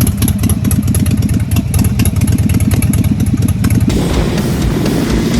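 Motorcycle with a loud exhaust running at idle, a rapid, even pulse of firing strokes. It cuts off abruptly about four seconds in, replaced by a fainter sound with a slowly rising tone.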